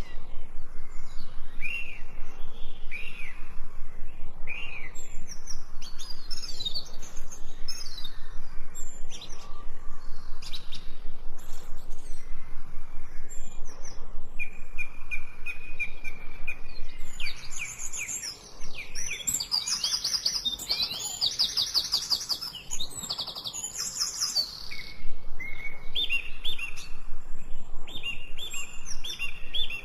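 Several songbirds singing and chirping, with short whistled notes and, past the middle, a few seconds of fast trilling.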